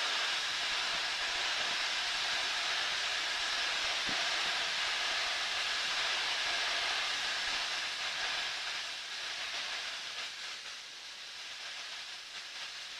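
Steady hiss of cockpit noise inside a Cessna 152 after landing, heard through the headset intercom, easing off a little over the last few seconds.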